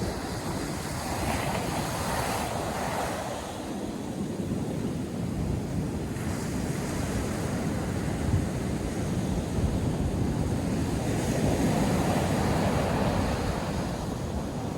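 North Sea surf breaking and washing on a sandy beach, a continuous rush that swells twice as waves come in, with wind buffeting the microphone.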